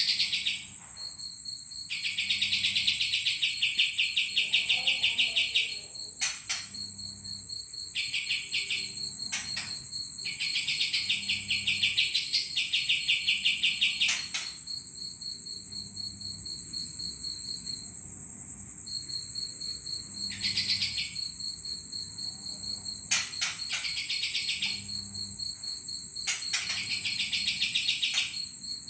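Songbird chattering in repeated rapid bursts of a second to a few seconds, over a continuous high insect trill.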